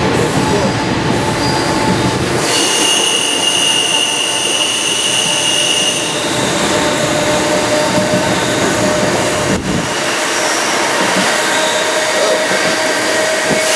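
Panama Canal Railway passenger train rolling along the track, heard from aboard as a steady running noise. From about two seconds in to about six seconds a steady high-pitched wheel squeal sounds over it.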